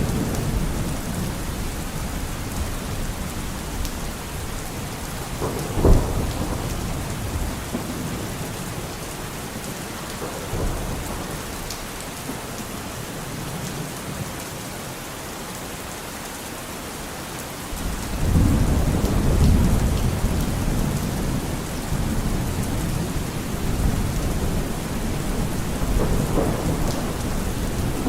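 Steady rain with thunder: a sharp clap of thunder about six seconds in, and a long low rumble of thunder that starts about eighteen seconds in and rolls on through the rest.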